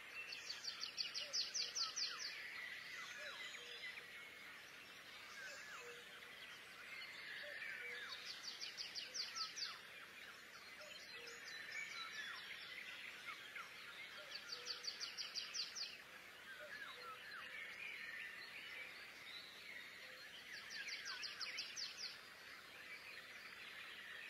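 Faint birdsong: a rapid high trill about every six to seven seconds, with scattered chirps in between.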